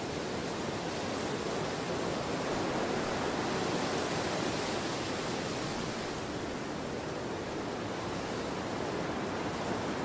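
Strong wind of an autumn storm blowing steadily, a continuous rushing that swells a little towards the middle and then eases.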